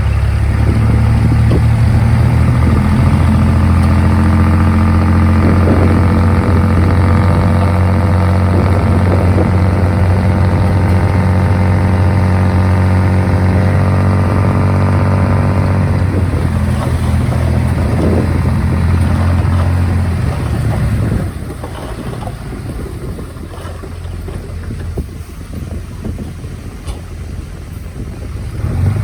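Komatsu D51PX bulldozer's diesel engine running at a steady pitch. About two-thirds of the way through, the engine note fades away, leaving a quieter, rougher noise.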